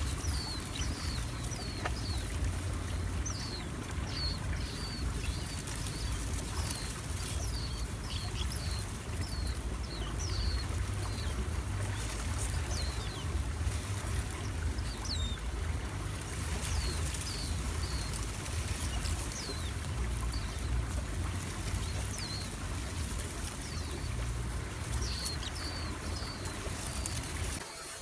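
Small birds at a reed nest give short, high chirps, each falling slightly in pitch, repeating irregularly about once or twice a second. A steady low rumble runs underneath.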